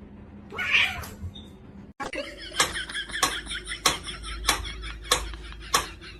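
A cat meows once, briefly. After a sudden cut, a run of sharp taps follows, about one every two-thirds of a second.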